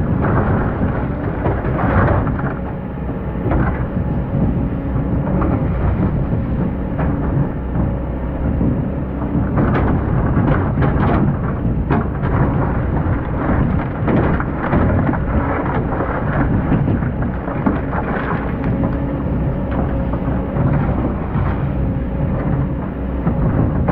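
Excavator's diesel engine running steadily under load, with frequent knocks and clatters as the bucket digs and handles sand.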